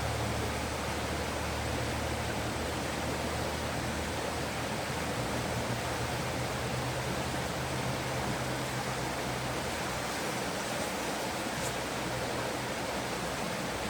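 Steady rushing of a flowing stream, with a low rumble underneath that fades about eight seconds in.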